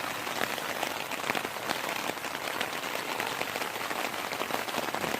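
Heavy rain falling steadily, an even hiss with many individual drop hits ticking through it.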